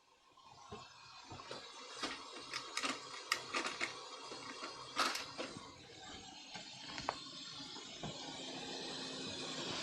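Sharp little clicks and taps of small parts and tools being handled on a workbench, thickest in the middle, over a steady hiss that slowly builds toward the end.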